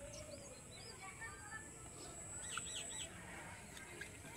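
Small birds chirping in short, quick calls: a few near the start and a run of three or four about two-thirds through. A thin, steady high tone underneath stops about three seconds in.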